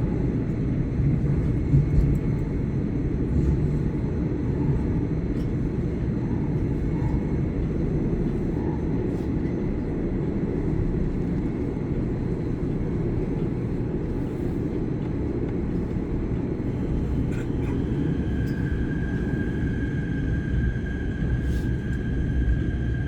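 Subway train running: a steady low rumble with occasional faint clicks. A steady high-pitched tone joins it about eighteen seconds in.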